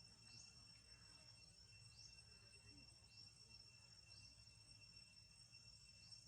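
Faint outdoor ambience: a steady high-pitched insect drone with short rising chirps repeating about once a second, over a low rumble.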